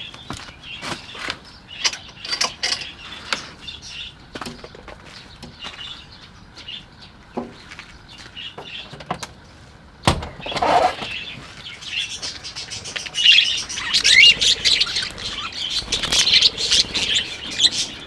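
A budgerigar flock with scattered wing flaps and short chirps, then denser chirping and chattering from about ten seconds in, with short rising whistled calls.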